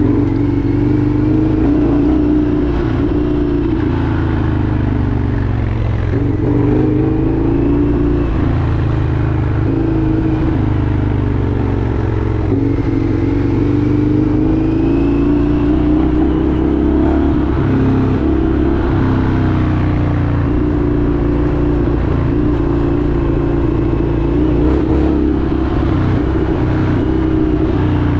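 Indian FTR 1200's V-twin engine running under way, its pitch rising and falling every few seconds as the throttle is opened and eased.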